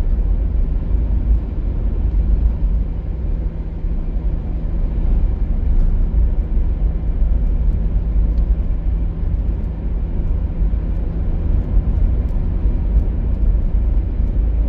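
Car driving along a country road, heard from inside the cabin: a steady low rumble of engine and tyre noise.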